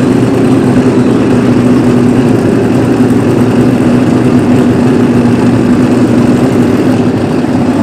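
Drag-race car engines idling loud and steady at the starting line, among them the blue Celica's turbocharged 2JZ straight-six.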